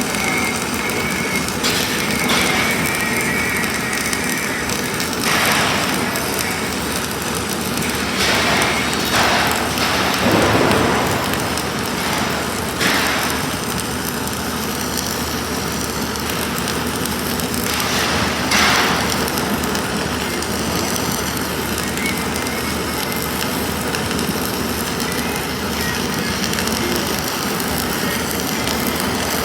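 Self-shielded flux-cored (Innershield) arc welding: a steady dense crackle from the arc, with a few brief louder surges.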